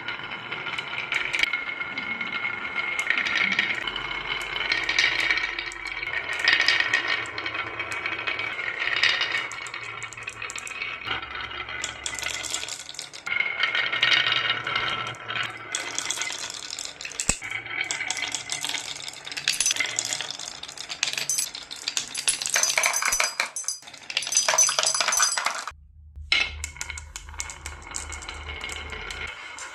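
Glass marbles clattering and clinking: a dense, rapid run of small hard clicks with a bright ringing, as many marbles pour, roll and knock against one another and the toy. The clatter cuts off suddenly for a moment near the end.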